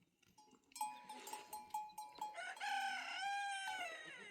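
Rooster crowing: a string of short notes, then one long drawn-out note that drops in pitch as it ends.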